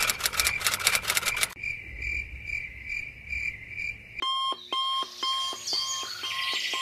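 Electronic alarm-clock beeping: a high repeating beep, quickening then settling to about two beeps a second, gives way about four seconds in to a lower repeating beep pattern, about three a second, the wake-up signal.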